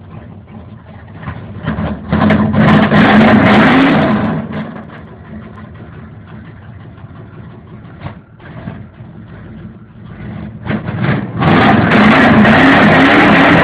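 Rebuilt Chevrolet 454 big-block V8 warming up after a cold start: idling, revved hard about two seconds in for a couple of seconds, then revved again near the end.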